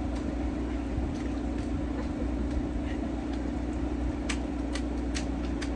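An engine running steadily at a constant pitch. Near the end come a few sharp clicks and knocks.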